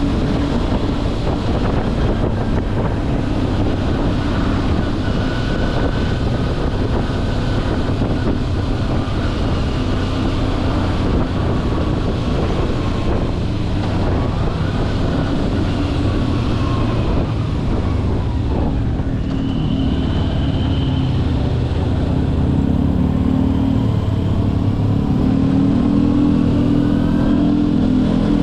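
Kawasaki Versys-X 250's parallel-twin engine running steadily under way, picking up a little in the last few seconds.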